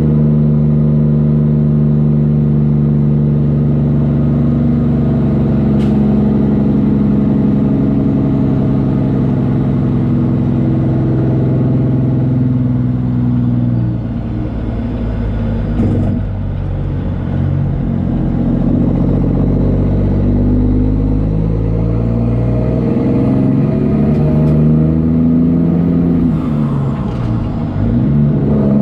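Semi truck's diesel engine running under way, its note steady, dipping briefly about halfway through and wavering in pitch near the end as the revs rise and fall, with a faint high whistle rising above it.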